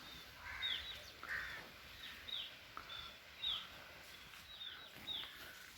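A small bird calling faintly: a series of short, high chirps, each sliding downward, repeated every second or so.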